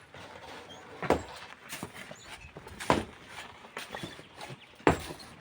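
Heavy strikes from manual mining work, three of them about two seconds apart, with lighter knocks and scrapes between.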